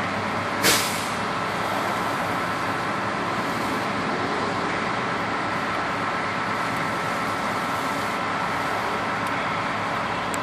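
Steady noise of road vehicles running, with one short, sharp hiss of air a little under a second in.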